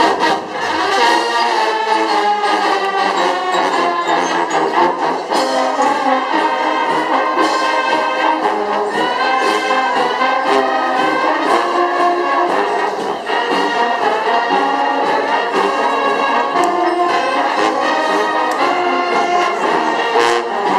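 Marching band playing: trumpets and trombones carry a sustained melody over steady drum strokes.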